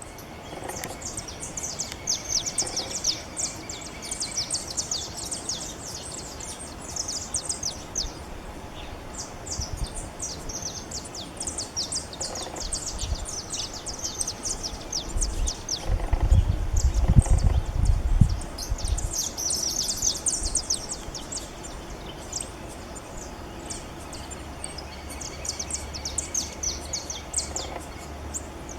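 Small finches singing: long runs of rapid, high twittering notes that pause and resume. A low rumble, the loudest part, comes in for about two seconds a little past the middle.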